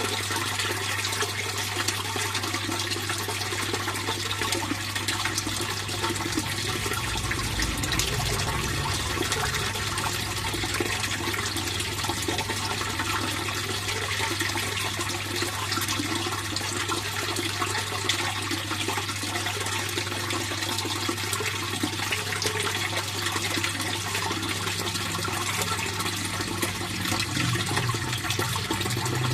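Fish pond water flowing and splashing steadily, with a steady low hum underneath that grows a little louder near the end.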